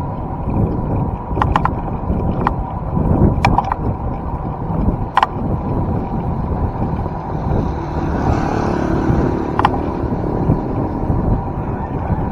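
Wind rumbling on the microphone of a camera riding along on a bicycle, with a few sharp clicks scattered through.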